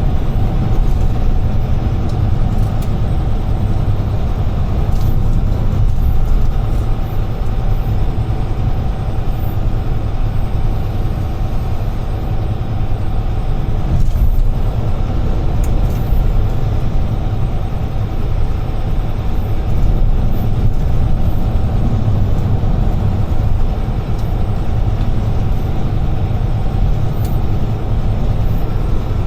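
UD Trucks Quon heavy truck driving, with a steady low engine drone and road noise.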